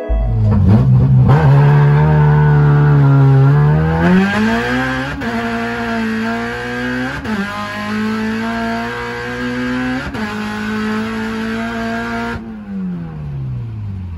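Honda K-series four-cylinder engine, heard from inside the car, revving hard near 7,000 rpm under full acceleration. Its pitch climbs, holds high with a few brief breaks, then falls away near the end as the revs drop.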